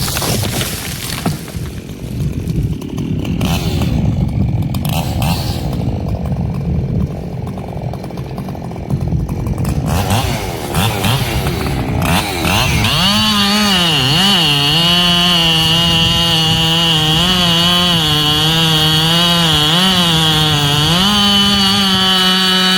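Echo CS-7310 two-stroke chainsaw running. It is rough and uneven for the first half, then runs at high revs from about halfway. Its pitch wavers, then rises a little and steadies near the end.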